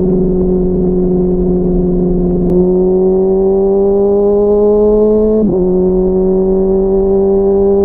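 Honda CBR600RR inline-four engine running at steady revs while riding, then climbing slowly in pitch from about two and a half seconds in. About five and a half seconds in the pitch dips briefly and settles a little lower, then holds steady again.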